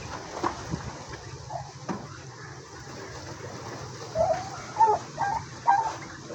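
Poultry calling: a few short calls in quick succession in the second half, after a few light knocks near the start.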